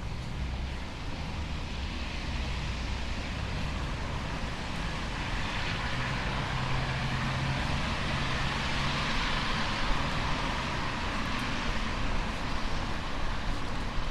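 Motor traffic passing on a wet street: a broad tyre hiss that swells to its loudest about eight to ten seconds in and then eases, over a low engine hum.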